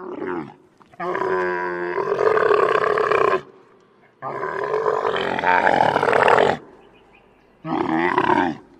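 Camel calling: a short rough call, then two long drawn-out calls of about two and a half seconds each, then a shorter one near the end.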